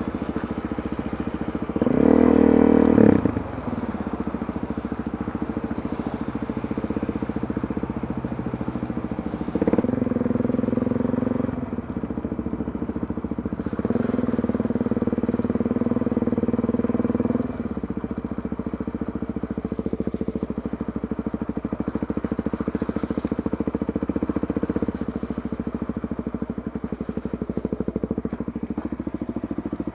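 Motorcycle engine running steadily under way, with the throttle opened three times: a short loud burst about two seconds in, again around ten seconds, and for a few seconds from about fourteen seconds.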